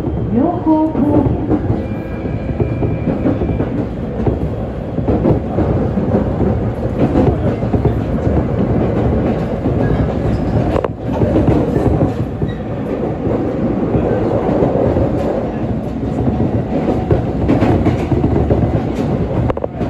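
ET127 series electric multiple unit running along the line, heard from inside the carriage: a steady rumble with wheels clattering over rail joints.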